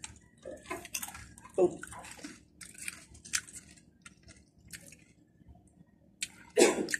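Crunchy spicy snack chips being chewed close to the microphone: a run of crisp crackling crunches, with a louder bite near the end.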